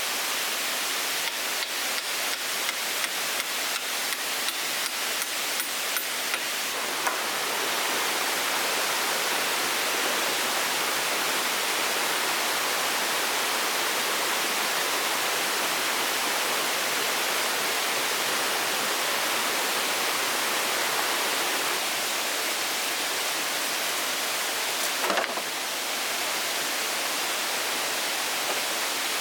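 Steady rushing hiss of water, with light, even ticks about two or three times a second for the first seven seconds and a brief knock about 25 seconds in.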